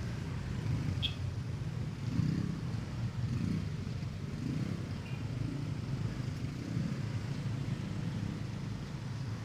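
Motorcycle running while being ridden, a low engine and road rumble that swells and eases a few times.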